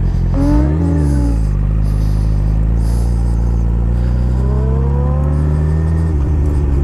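Vehicle engine running under way: a quick rev that rises and falls about half a second in, steady running, then a rising pitch as it accelerates, dropping suddenly near the end as it shifts up.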